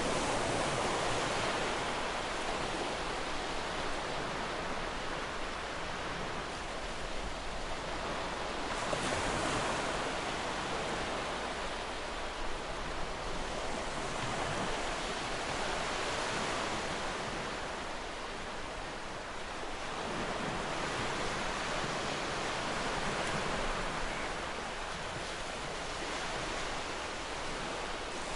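Ocean waves breaking and washing onto a beach, a steady surf wash that swells and ebbs every few seconds.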